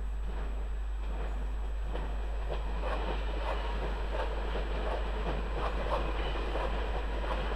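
Red DSB electric passenger train passing by, its wheels clicking steadily over the rail joints, the clicks growing louder from about two seconds in as the cars roll past.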